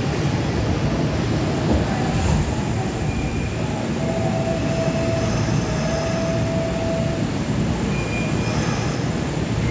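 Hanshin 8000-series electric train pulling into an underground platform and coming to a stop, with a steady running rumble. A thin, drawn-out squeal rises over it midway through.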